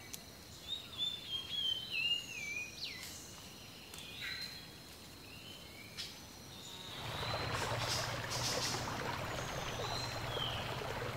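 A bird sings a few wavering, falling whistled phrases, with scattered chirps after them. About seven seconds in, a steady noisy rumble with a low hum sets in and runs on.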